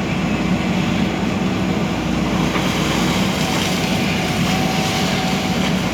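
Diesel engine of a JCB 3DX backhoe loader running steadily under work.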